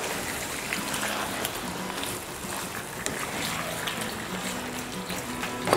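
Chicken pieces sizzling in oil and spices in a wok over a low gas flame, a steady hiss with a few faint clicks from a spoon stirring.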